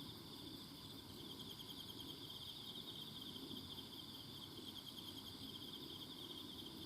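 Insects chirping in a forest: a steady, rapidly pulsing high trill with a fainter higher band over it, over a low background rumble.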